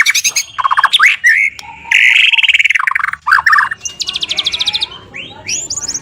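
White-rumped shama singing a loud, varied song of rapid rattling trills and quick sweeping notes, with a fast high trill near the end.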